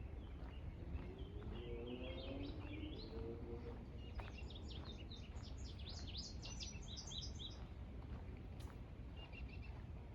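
Small songbirds singing: a twittering phrase in the first few seconds, then a rapid run of high chirps from about four to eight seconds in, over a steady low rumble. A faint low tone rises in pitch under the first phrase.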